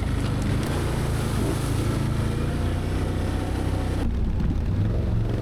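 Can-Am Outlander V-twin ATV engine running steadily at low speed along a rough trail. About four seconds in, the hiss over the engine drops away suddenly.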